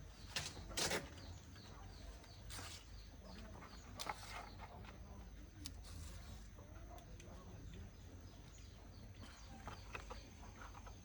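Faint, quick repeated bird chirps, with a few short knocks or scrapes in the first few seconds.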